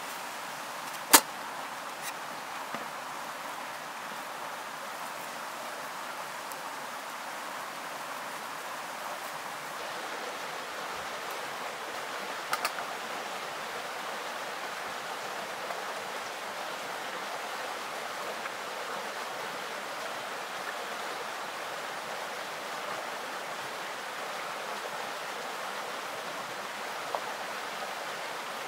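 Steady outdoor rushing noise with a sharp click about a second in and a couple of faint clicks near the middle.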